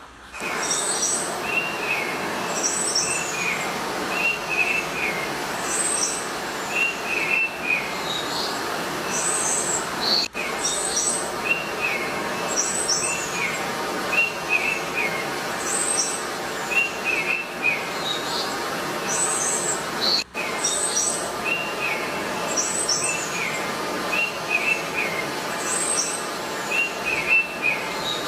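Birds calling over and over: short chirping phrases about every second or so, mixed with higher, thinner calls, over a steady hiss. The sound cuts out briefly twice.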